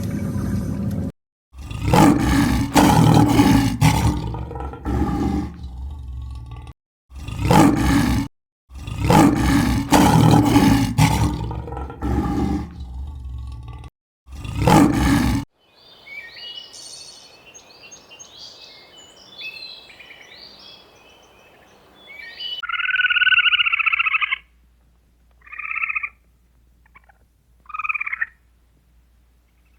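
Farm animal calls in a sequence: a run of loud, low, drawn-out calls over the first half. Then faint high chirping for several seconds, and three short calls spaced a couple of seconds apart near the end.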